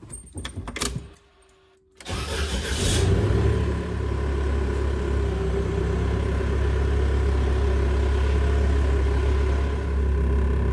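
A few clicks, then about two seconds in the swapped-in Volkswagen BEW 1.9 TDI diesel engine cranks and fires, settling into a steady idle.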